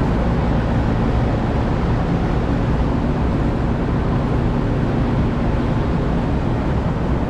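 Rooftop packaged air conditioning unit running in cooling, its compressor and condenser fan giving a steady, loud, low drone with a faint hum. The system is at normal running pressures.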